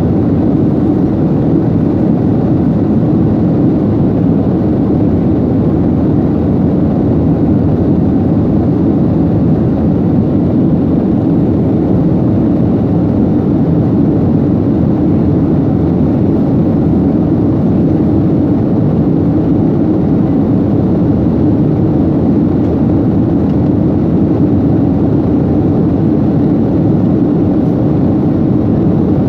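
Steady, loud roar of a jet airliner's engines and rushing air heard from inside the passenger cabin.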